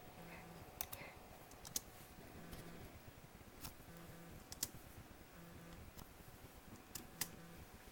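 Scattered sharp clicks and taps on laptop keys, about seven spread irregularly, a few in quick pairs, as a cat paws at the laptop.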